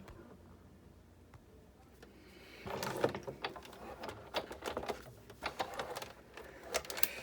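Sizzix Big Shot manual die-cutting machine being hand-cranked, the plate sandwich feeding through the rollers with irregular clicking and clunking that starts a few seconds in.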